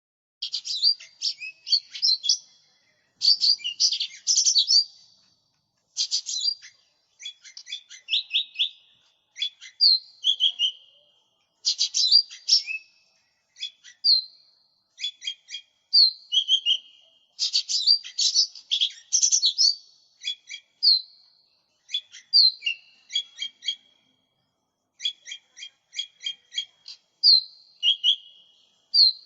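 Lesser green leafbird (cucak ijo mini) singing vigorously: rapid high chirps, short whistles and trills strung into phrases of one to two seconds, with short silent gaps between.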